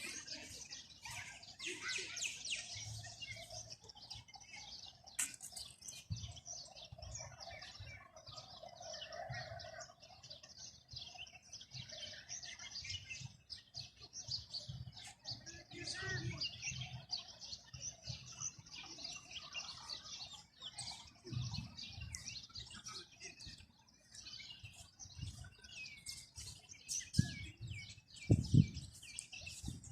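Many small birds chirping, a dense, continuous chorus of short high chirps. A few low thumps sound near the end.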